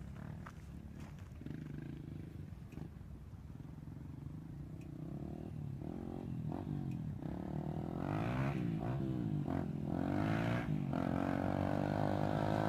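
Dirt bike engine running low and quiet at first, then its revs rising and falling repeatedly and growing steadily louder through the second half.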